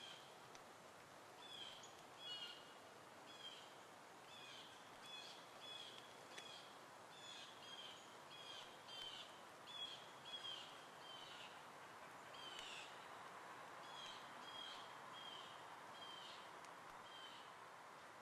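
Birds calling faintly: short, high chirping notes repeated about once or twice a second, over a soft steady background hiss.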